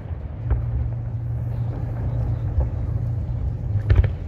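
Lull in a fireworks display: a steady low rumble and hum, with a faint bang about half a second in and two firework bangs near the end.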